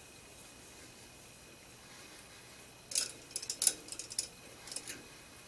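A quiet stretch, then from about three seconds in a scattered run of light metallic clicks and clinks lasting about two seconds, as tapping tools are handled and moved at the lathe.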